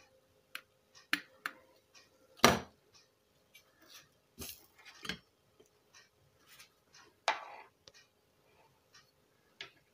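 Small scattered clicks and knocks of tools and a circuit board on a workbench while an amplifier IC is desoldered, with sharper knocks about two and a half seconds in and again near seven seconds. A faint steady hum from the hot-air blower runs underneath.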